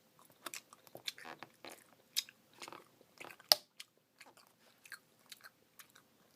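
Close-up mouth sounds of someone eating a Blizzard of soft-serve ice cream with Oreo cookie pieces and gummy worms: irregular chewing with small wet clicks and smacks, one sharper click about three and a half seconds in.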